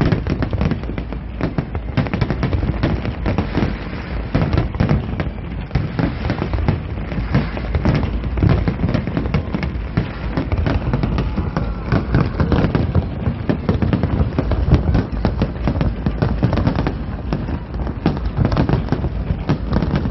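Aerial fireworks display: shells bursting in a rapid, unbroken barrage of bangs and pops.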